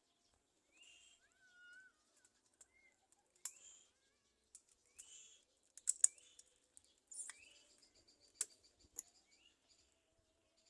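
Faint, short high-pitched bird calls repeating every second or two, with scattered sharp clicks in between.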